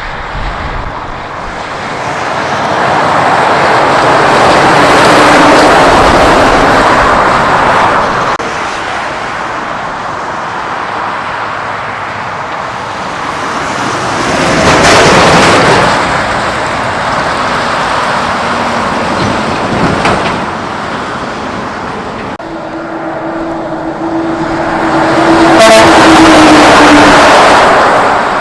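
Trucks passing on the road one after another: three swells of engine and tyre noise build up and die away, the last with a humming engine note that drops in pitch as it goes by.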